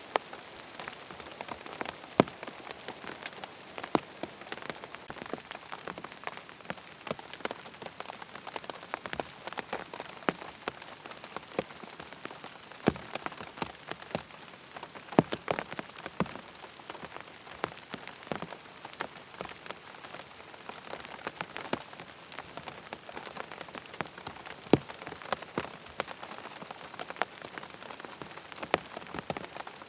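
Steady rain falling, with frequent sharp, irregular taps of single drops striking a hard surface.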